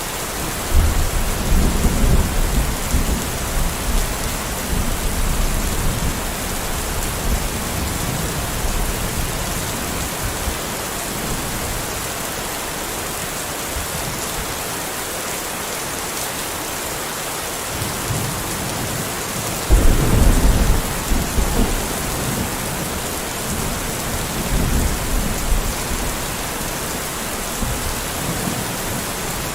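Steady rain hissing, with rolls of thunder: a deep rumble breaks in about a second in and dies away over several seconds, a second sharp roll comes about twenty seconds in, and a weaker rumble follows a few seconds after it.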